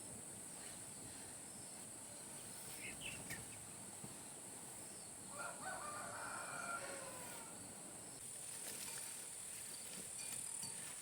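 A rooster crows once, about five seconds in, its call falling in pitch at the end, over a steady high-pitched drone of insects.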